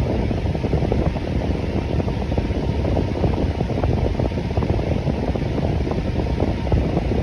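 Electric fan running steadily: a continuous, even whoosh of air, mostly low in pitch.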